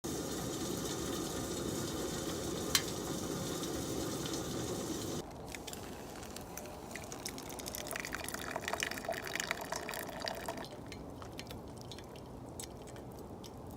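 Wood campfire burning: a steady rushing hiss with a single sharp pop for about five seconds, then, after a cut, scattered crackles and pops that thin out near the end.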